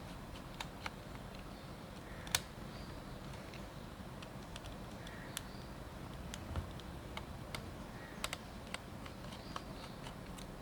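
Scattered small clicks and taps of hand tools and small parts on a Nikon D90 camera body being taken apart, the loudest about two seconds in.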